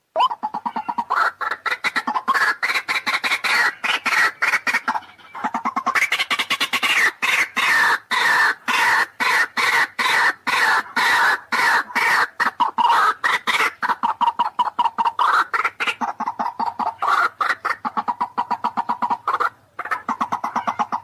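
White-breasted waterhen (ruak-ruak) calling: a dense, continuous run of harsh, rapidly repeated notes.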